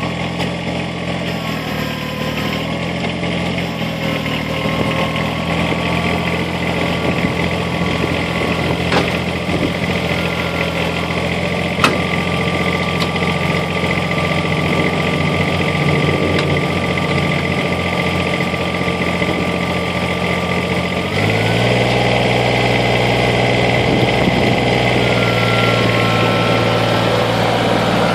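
Kubota BX sub-compact tractor's diesel engine running steadily just after starting, with its engine note dropping and deepening about 21 seconds in.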